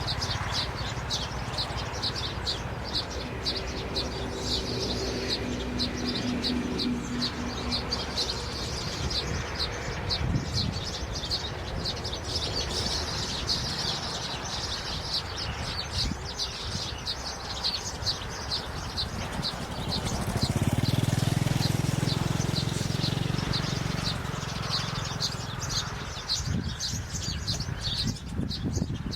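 Birds chirping in a quick, steady run of short high chirps, several a second, with a low rumble swelling for a few seconds about two-thirds of the way through.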